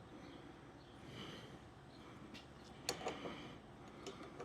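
Faint, sparse clicks and light taps of hand tools and metal fuel fittings being handled, the sharpest about three seconds in, over a low room hum.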